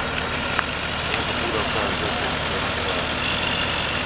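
A vehicle engine idling steadily under a constant rushing noise, with a faint short click about half a second in.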